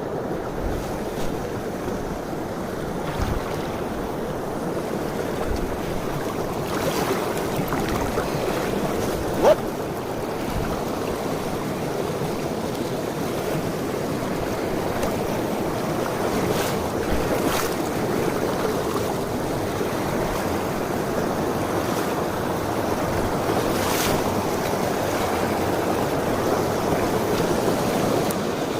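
Mountain stream water rushing steadily, with a few faint clicks and one brief sharp sound about nine and a half seconds in.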